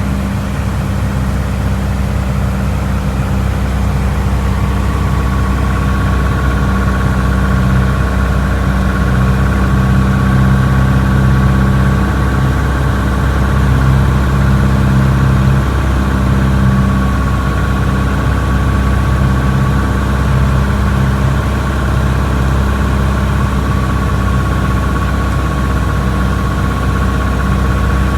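Piper PA-28 light aircraft's piston engine and propeller droning steadily, with a thin steady whine joining about four seconds in.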